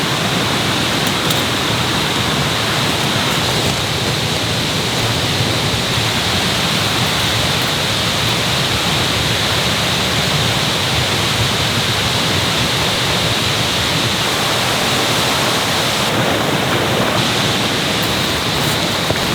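Mountain stream flowing: a loud, steady rush of water.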